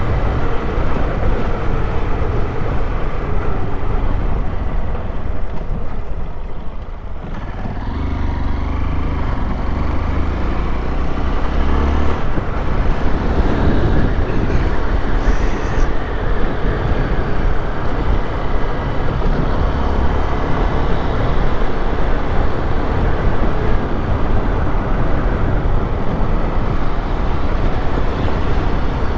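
Honda XRE 190 single-cylinder motorcycle engine running on the move, with a heavy low rumble throughout. It eases off briefly about six seconds in, then picks up again with the engine note rising and falling.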